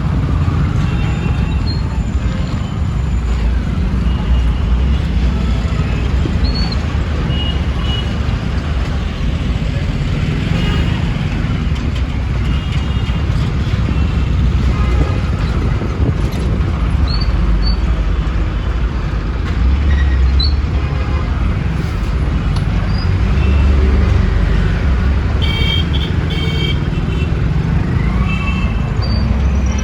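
Busy road traffic: a steady low rumble of engines and tyres, with short vehicle horn toots now and then and a cluster of horn blasts near the end.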